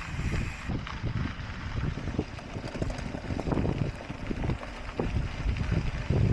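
Wind buffeting the microphone of a camera riding along on a mountain bike, a dense uneven low rumble with frequent irregular knocks and jolts from the bike on the trail.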